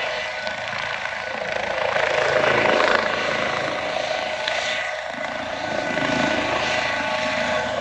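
Helicopter's engine and rotors running as it lifts off, a steady whine over rotor noise that swells and eases in loudness.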